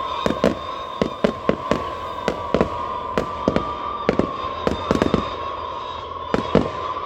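Fireworks display going off: a rapid, irregular string of bangs and cracks, several a second, over a steady high-pitched tone.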